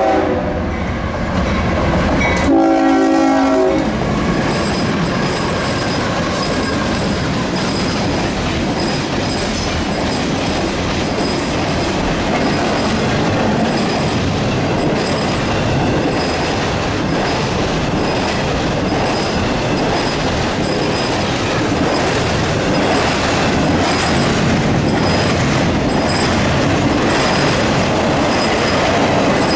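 CSX intermodal freight train hauled by three diesel locomotives gives a short horn blast about three seconds in, then its locomotives and double-stack container cars roll past with a steady rumble and wheels clattering over the rail joints and the diamond crossing.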